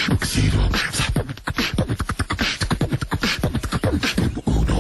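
Beatboxing: a voice making fast mouth-percussion sounds, deep thumps mixed with sharp hissing clicks in a quick, steady rhythm.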